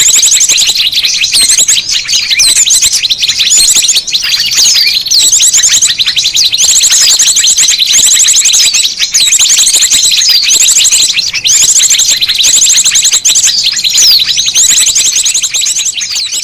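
Bird-lure recording of a noisy chorus of small birds: many high-pitched chirps and rapid trills overlapping without a break, loud and busy, beginning to fade near the end.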